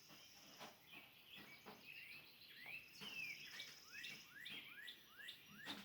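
Faint birdsong: one bird repeats a short rising chirp about twice a second through the second half, with other birds chirping softly.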